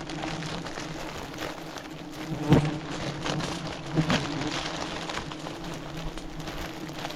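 Swarm of giant honey bees buzzing steadily in a dense hum, with two louder brief sounds close to the microphone about a third of the way in and again just past halfway.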